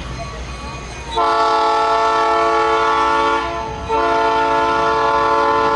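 Locomotive air horn sounding two long, loud blasts, a steady multi-note chord starting about a second in, with a short break before the second blast, over a low rumble.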